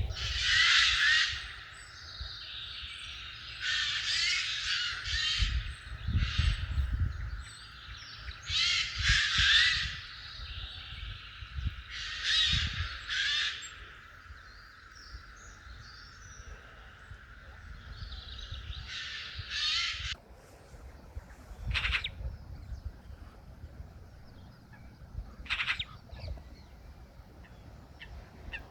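Birds calling outdoors: loud calls in bursts every few seconds over a steady background of birdsong that stops suddenly about twenty seconds in, followed by a few fainter single calls.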